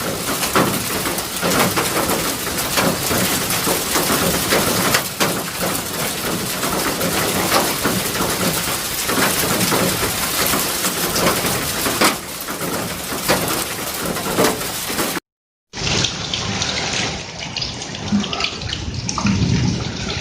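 Heavy rain pouring down, a dense hiss thick with the patter of drops striking hard surfaces. About fifteen seconds in it cuts off abruptly, and a quieter, duller rain sound follows.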